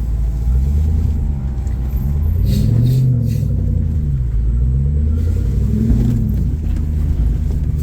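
Jeep's engine working through a rock-crawling section, its revs rising and easing back a few times, most clearly about three and six seconds in.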